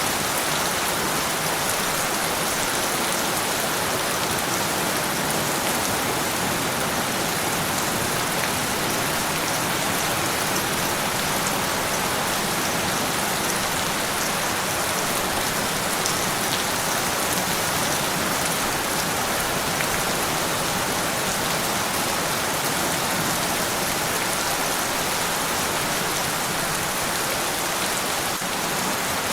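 Steady rain falling and pattering on a surface, an even hiss with scattered faint drop ticks and no change in intensity.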